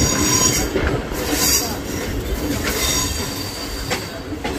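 Mumbai suburban electric local train running round a curve, heard from an open doorway: wheel squeal with high steady tones that dies away within the first second, then steady running noise with a couple of sharp clacks from the rails.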